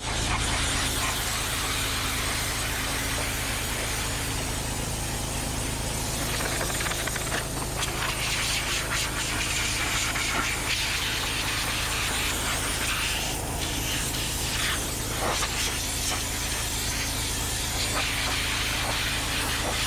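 Cat 259D compact track loader running a forestry mulcher head: the diesel engine running steadily under load, with a constant hiss from the spinning mulching drum.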